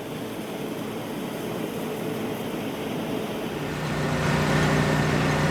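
Machinery running with a steady rumble that grows louder, and a low hum with a few higher tones coming in about four seconds in.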